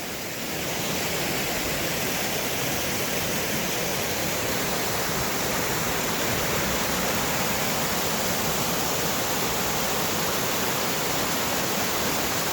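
A 40 ft waterfall rushing steadily. It grows a little louder about a second in and then holds steady.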